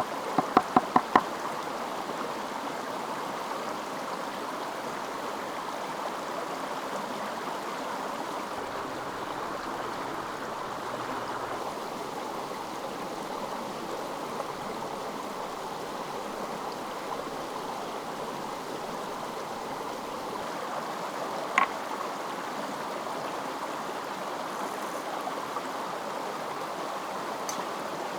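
A stream flowing steadily. In the first second a run of quick, even knocks, about five a second, breaks off, and a single sharp click comes a little past the middle.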